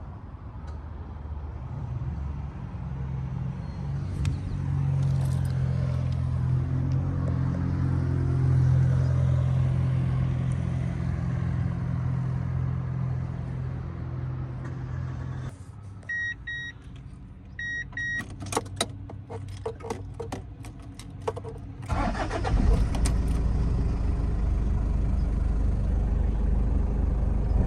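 Toyota 1KZ-TE 3.0-litre four-cylinder turbo diesel running steadily, then shut off about fifteen seconds in. Two pairs of short beeps and a run of clicks and jingling follow, and the diesel is started and runs again near the end.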